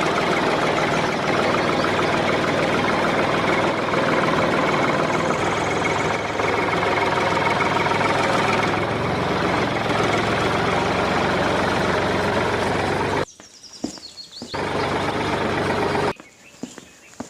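A motor running steadily, cutting off about 13 seconds in, then running again briefly and stopping.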